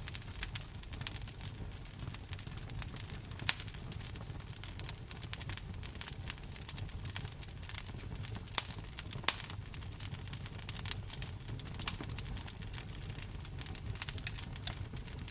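Wood fire crackling: a dense run of small snaps, with four louder pops spread through, over a low steady rumble.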